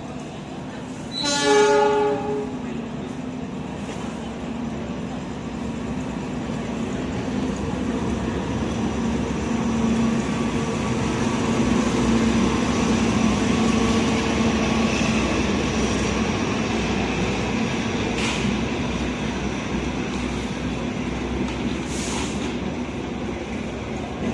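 CC 206 diesel-electric locomotive hauling a passenger train through a station without stopping. It sounds one short, loud horn blast about a second in. Its engine drone then swells as the locomotive passes and eases as the coaches roll by with a few wheel clacks.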